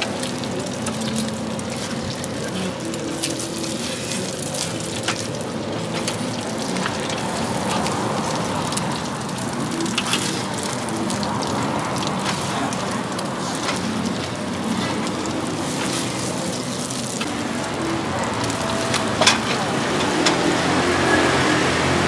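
Minced-pork Thai omelette sizzling and crackling in hot oil in a wok, a steady frying noise full of small pops, with now and then the metal ladle scraping and knocking against the wok.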